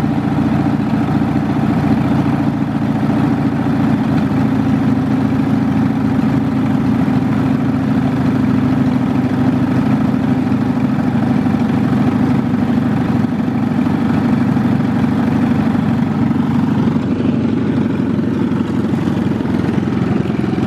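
Craftsman LT1000 lawn tractor's engine running steadily just after a cold start, warming up with the choke still partly on and the throttle eased back.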